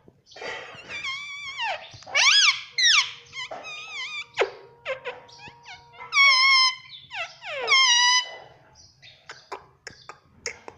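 Ringneck parrot calling: a run of loud, high-pitched calls that sweep up and down in pitch, the strongest about two, three, six and eight seconds in, followed by a few soft clicks near the end.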